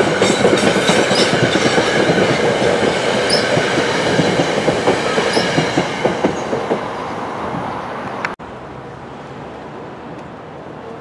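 NJ Transit commuter train's passenger coaches rolling past at speed, wheels clicking over rail joints, fading as the last car goes by. About eight seconds in, the sound cuts off suddenly to a much quieter background hum.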